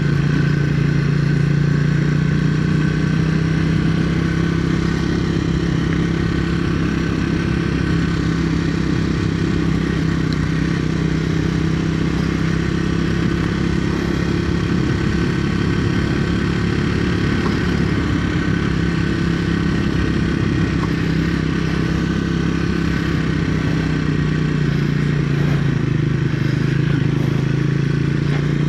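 Triumph Speed 400's single-cylinder engine running under way at a steady pitch. The engine note dips slightly about 25 seconds in, then rises again.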